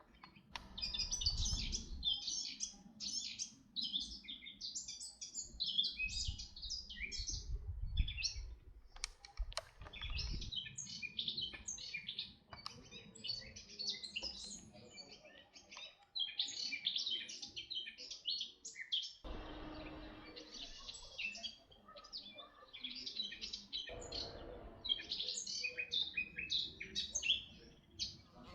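Small birds chirping and singing busily, a quick run of many short high notes with hardly a break. A few low rumbles come and go beneath them.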